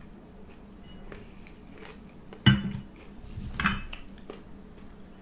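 Eating utensil knocking and clinking against a dish or bowl, with a sharp knock about two and a half seconds in and a few lighter clinks a second later.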